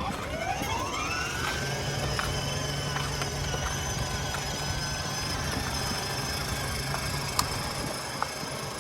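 A motor winding up with a rising whine over the first two seconds, then running with a steady hum, with a few scattered clicks.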